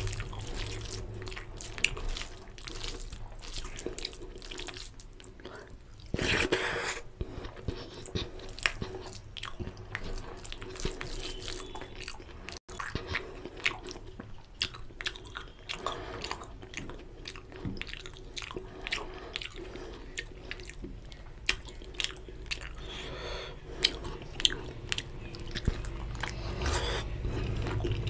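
Close-miked chewing and wet mouth sounds of rice and oily mutton curry eaten by hand, a dense run of small smacks and clicks. A louder, longer noisy sound comes about six seconds in.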